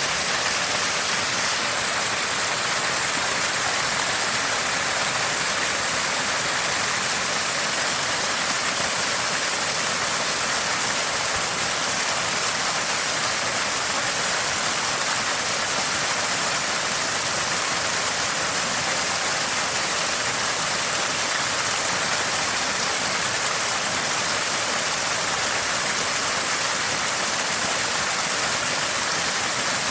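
Small spring of fresh water gushing and gurgling steadily.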